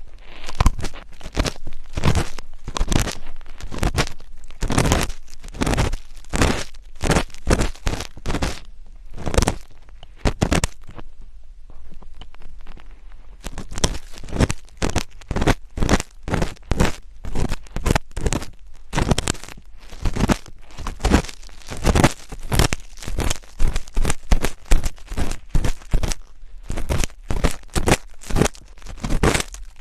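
Close-miked ASMR scratching: crisp rubbing and scraping strokes against the microphone, about two to three a second, with a short pause about eleven seconds in.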